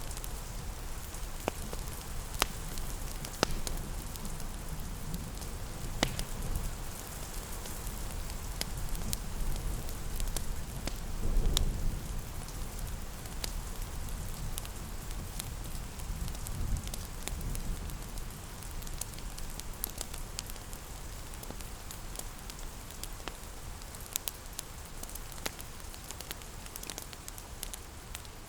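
Steady rain hiss mixed with a crackling wood fire, its scattered sharp pops standing out above the rain. A low rumble swells briefly near the middle.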